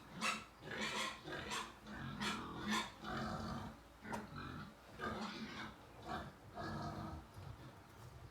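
Sow and her two-day-old piglets calling during nursing: a quick string of short squeals and grunts, about two a second, over lower grunting.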